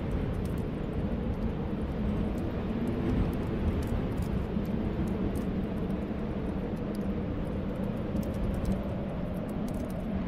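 Snowstorm wind rushing steadily with a low rumble, while faint, scattered crackles of a fireplace fire sit in the background.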